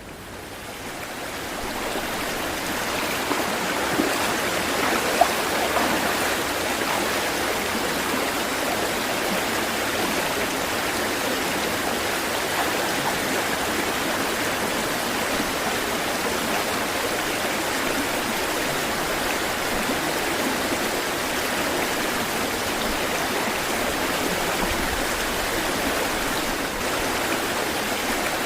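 Steady rush of flowing water, like a stream running over rocks, fading in over the first couple of seconds and then holding even, with a couple of brief clicks about four and five seconds in.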